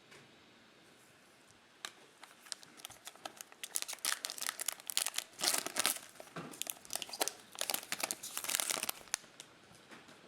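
Wrapper of a football trading-card pack being torn open and crinkled by hand. Dense crackling starts about two seconds in and dies down near the end.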